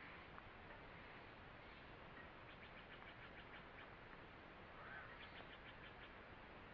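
Faint forest ambience: a soft steady hiss with a small bird calling twice in quick runs of high chirps, about ten notes a second, one run near the middle and one near the end.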